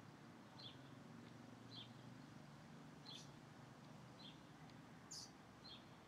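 A small bird giving short, high chirps, about one a second, with one louder chirp near the end, faint over a low steady background hum.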